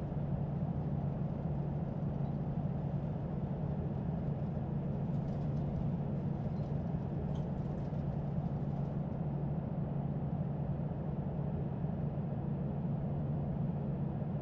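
Steady low drone and hiss inside an Airbus A321 cockpit on the ground, with an even hum that does not change.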